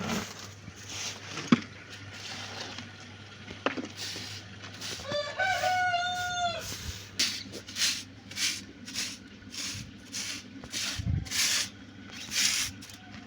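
A rooster crows once, about five seconds in, a single drawn-out call of roughly two seconds. After it comes a run of short, scratchy sounds, about two a second.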